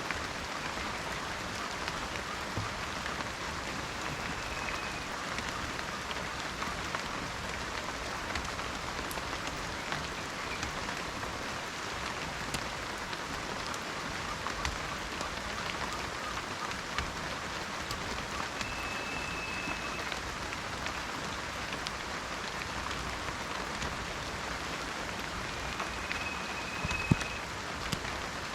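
Steady rain falling in a forest, with individual drops ticking throughout. Three faint, short, high whistles come a few seconds in, about two-thirds through and near the end, and one sharper drop or knock sounds near the end.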